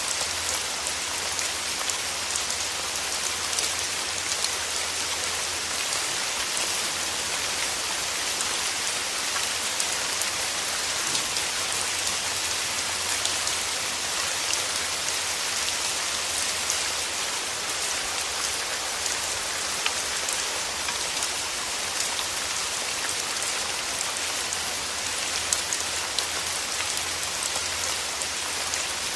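Steady, even rain: a constant hiss scattered with many close individual drops ticking.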